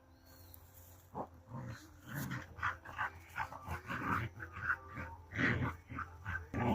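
Dogs in rough play: a run of short, irregular growls that starts about a second in.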